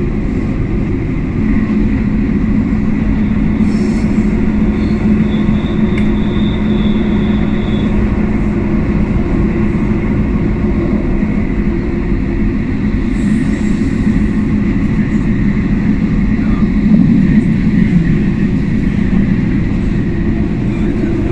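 Matterhorn Gotthard Bahn electric train running, heard from inside the carriage: a steady rumble with a low hum, and a faint high whine for a few seconds a little way in.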